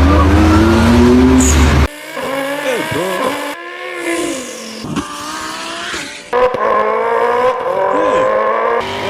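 A person imitating a revving race-car engine and tire squeal with the mouth, in several short takes whose pitch rises, dips and glides; the first take is the loudest and deepest, and a louder one starts about two-thirds of the way in.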